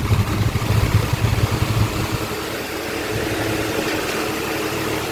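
Electric table fan running, with a rapid tak-tak knocking from its loose blade cap for about the first two seconds, then settling into a steady hum. A loose blade cap lets the blade work free, wearing the cap and the blade, and can let the blade strike the front guard.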